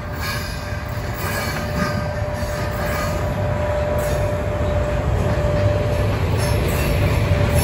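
VR Class Sr1 electric locomotive hauling a freight train of flatcars loaded with military trucks: a low rumble of wheels on rails that grows steadily louder, with a thin, steady squeal held above it.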